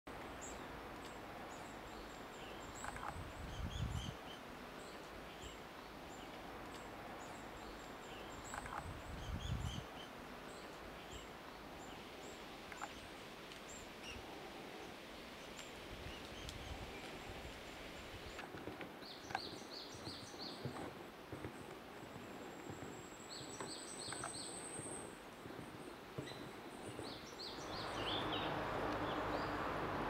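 Forest ambience with birds chirping and calling: scattered short high chirps and one longer rising whistled call about three quarters of the way through. Two low bumps come in the first third, and a steady hiss grows louder near the end.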